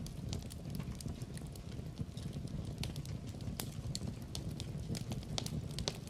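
Wood fire burning in a fireplace: a steady low rumble of flame with irregular sharp crackles and pops from the burning logs, several a second.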